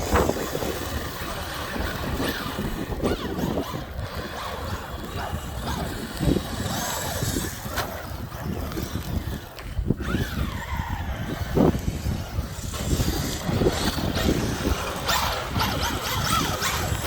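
Snowstorm wind rushing and buffeting the microphone with a steady low rumble, plus a few short gliding squeaks partway through.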